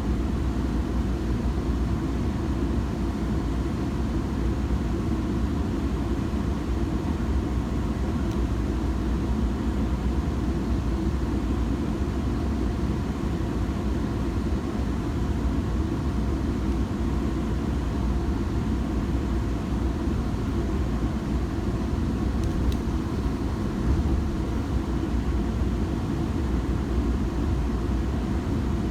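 Steady low rumble of a Metrolink commuter train running, heard from inside a passenger car: wheels on rail and running gear at an even speed. A faint click comes about 23 seconds in.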